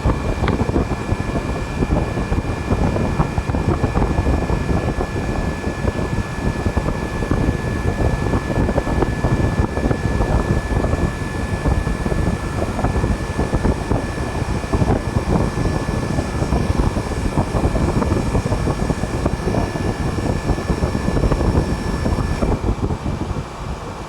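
Display chiller's refrigeration unit running, a steady fan and compressor noise with a couple of thin steady whines over it; the whines cut out about 22 seconds in and the noise eases a little.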